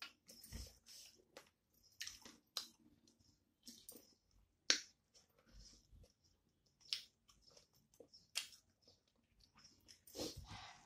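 Close-up chewing of a mouthful of rice and curry, with irregular wet mouth smacks and clicks.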